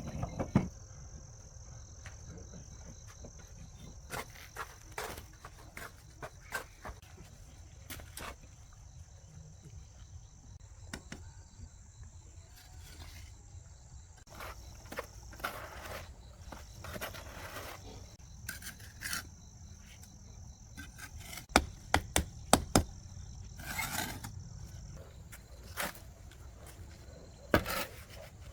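Steady high-pitched insect chirring, with scattered knocks, clicks and scraping sounds throughout; the chirring stops about 25 seconds in. The loudest knocks come in a quick cluster a little past the middle.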